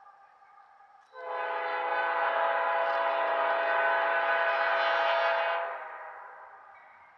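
Locomotive air horn sounding one long blast, starting suddenly about a second in and held for about four and a half seconds as a chord of several steady tones, then dying away.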